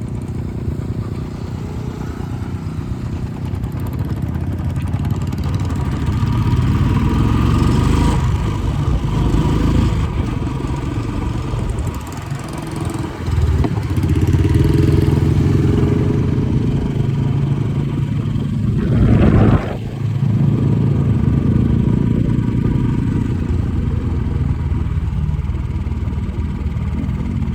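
Motorcycle engine running steadily, easing off briefly about halfway through. About two-thirds of the way in it gives a sharp, loud rev that cuts off suddenly.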